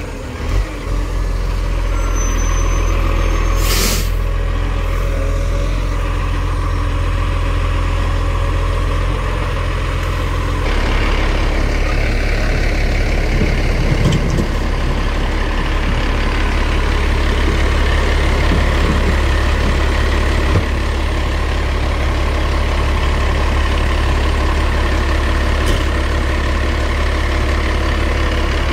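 Garbage truck's diesel engine running steadily, with a short hiss of air brakes releasing about four seconds in; the engine note changes about ten seconds in.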